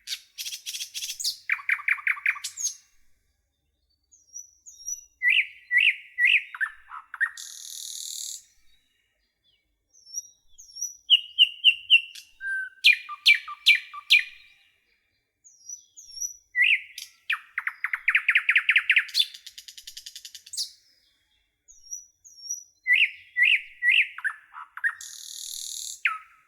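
Nightingale singing: five separate, varied song phrases a few seconds each, built of whistled notes, fast trills and quick runs of repeated notes, with short pauses between phrases.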